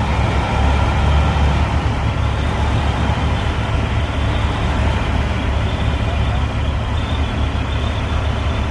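Heavy construction machine's diesel engine running steadily, its sound strongest in the low range and easing slightly toward the end.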